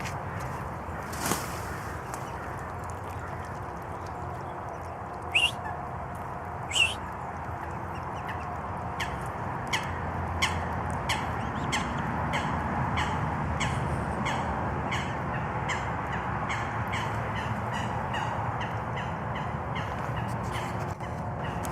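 Birds calling over a steady outdoor background: two short, sharp rising calls about five and seven seconds in, then a long run of quick short calls, about two a second.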